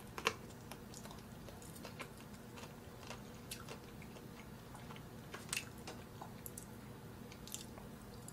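A person chewing soft braised chicken and noodles close to the microphone: wet chewing with scattered small clicks and smacks, the sharpest just after the start and again about five and a half seconds in. A faint steady low hum lies underneath.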